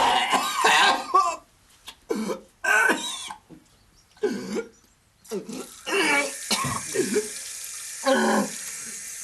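A man retching, coughing and gagging in short bouts after announcing he is going to be sick from drink. About six seconds in, a tap starts running with a steady hiss, and the coughing and gagging continue over it.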